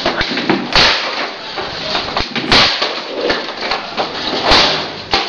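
A plastic-bodied WAP pressure washer slammed against something three times, about two seconds apart, as a sharp crack each time, over a steady hiss.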